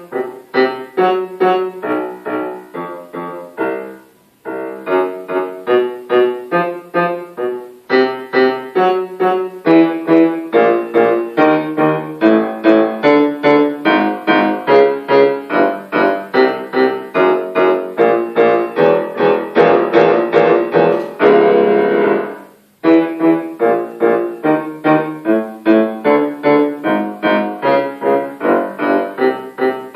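Solo piano playing a steady stream of notes, with a brief pause about four seconds in and a dense, held passage about two-thirds of the way through that breaks off before the playing resumes.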